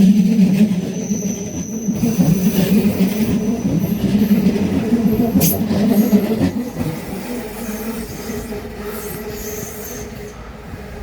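A train rolling past on the rails, its wheels squealing with thin high tones over a steady rumble, with one sharp click about halfway through. It is loud for the first two-thirds and then fades as the train moves away.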